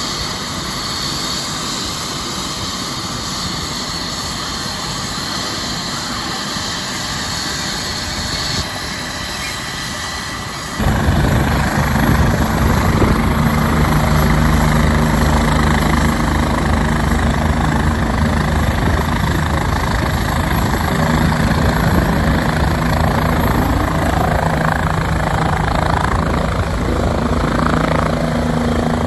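Steady engine drone under a hiss. About eleven seconds in it cuts abruptly to a louder, deeper drone with several steady low tones.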